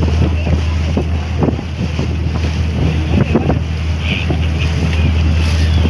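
Catamaran ferry running at sea: a steady low engine drone, with wind buffeting the microphone and water rushing past the hull.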